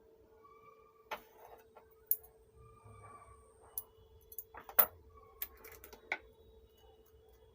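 Irregular clicks and taps of small hard objects being handled, about a dozen over the stretch, with the loudest just before the midpoint and again a little after it. A faint steady hum runs underneath.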